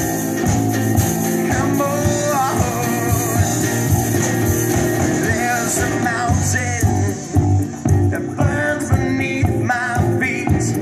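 Rock band playing live, with guitar and a steady beat.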